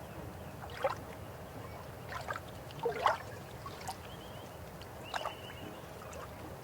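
River water flowing steadily, with a gurgle or splash every second or two.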